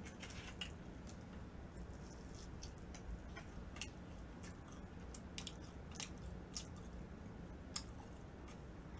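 Close-miked chewing of a mouthful of fried pork cutlet (tonkatsu): faint wet mouth clicks and small crunches at irregular intervals, over a steady low hum.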